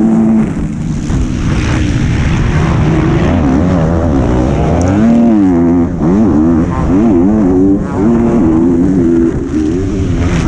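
Motorcycle engine heard from onboard, revving up and down again and again as the throttle is opened and shut, with several brief drops where the rider backs off. The uploader's tags point to a 125 cc two-stroke motocross bike.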